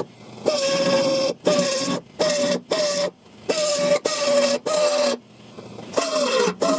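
A handheld electric power tool's motor run in about nine short trigger bursts, each under a second, with a steady whine over a hissing grind of metal. The pitch sags under load in the last bursts.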